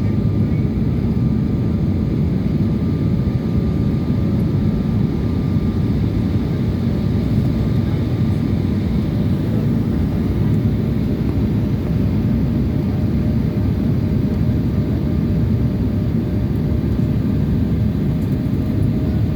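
Steady rumble of an airliner in flight heard from inside the cabin: constant low engine and air noise with a faint steady hum.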